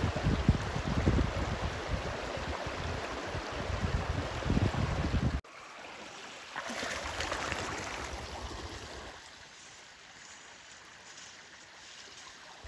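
Rushing stream water, with wind rumbling on the microphone. About five seconds in it cuts abruptly to a quieter stretch of flowing water that hisses for a few seconds, then settles lower.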